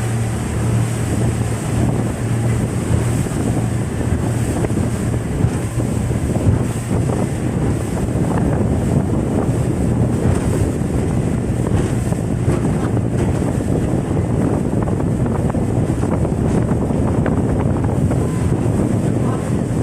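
Wind buffeting the microphone over the steady low drone of a boat engine, with water rushing and splashing, as on a banana boat ride towed at speed.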